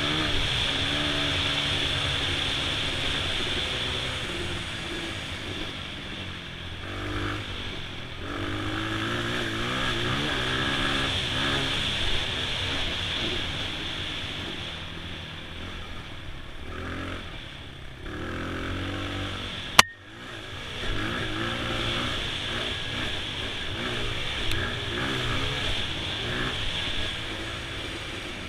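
Honda XR100's small single-cylinder four-stroke engine running under load, its pitch rising and falling as the throttle is opened and closed. About two-thirds of the way through a single sharp knock is heard, and the engine drops off briefly before picking up again.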